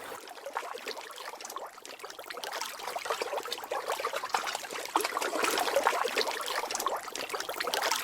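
River water splashing and trickling over rocks, a dense patter of small splashes that grows louder about two and a half seconds in and again at about five seconds.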